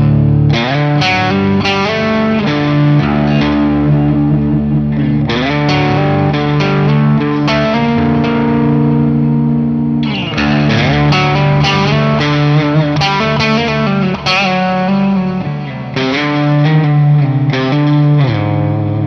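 Electric guitar played through a Boss Katana 100 MkII amplifier, heard through a microphone in front of the amp: sustained chords and ringing single notes with effects, with slides between chords about five and ten seconds in.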